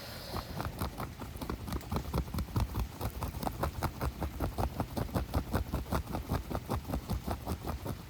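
Fingers making a fast, even run of strokes, about seven a second, on a surface: ASMR hand-sound triggers.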